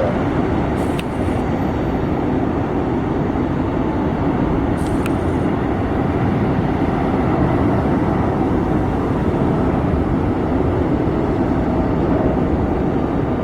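Jet airliner engines running, a loud steady rush of engine noise with two faint clicks, about one and five seconds in.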